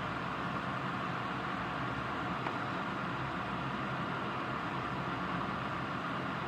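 Steady rain falling during a thunderstorm, an even hiss with no thunder or other sudden sounds.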